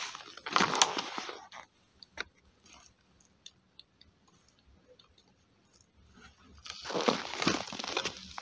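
Footsteps crunching in snow, stopping about a second and a half in. A few faint ticks follow during a quiet stretch, and the crunching steps start again near the end.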